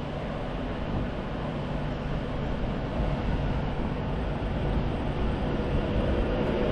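A train running through the station, a steady rumble with a faint hum that grows slowly louder.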